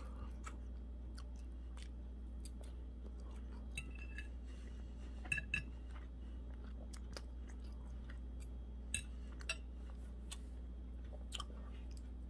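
A person chewing chicken with small wet mouth clicks, and a few light clinks of a metal fork against a ceramic plate, over a steady low hum.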